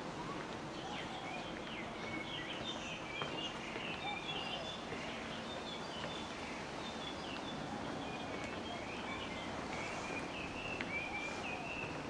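Small birds chirping and twittering in many quick, high, short calls over a steady hum of background noise.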